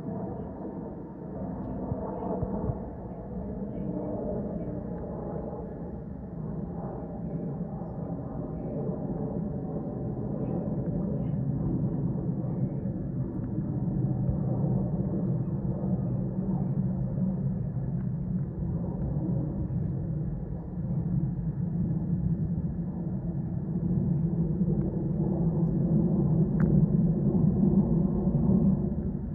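Aircraft engines, a steady low rumble that grows gradually louder, strongest near the end.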